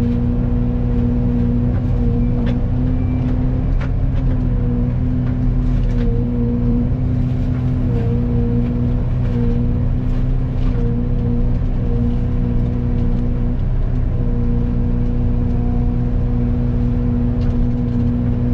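Excavator running with a Fecon forestry mulcher head spinning: a steady machine hum over a low rumble. The hum's pitch dips briefly every second or so, and a few sharp ticks come through.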